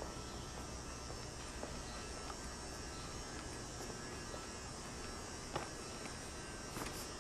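A steady low hum of room tone, with a couple of faint clicks near the end.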